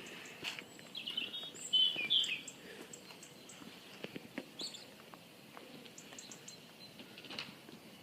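Birds chirping outdoors, with a brief burst of quick chirps about one to two seconds in and a few short high calls later, over faint background noise and scattered light clicks.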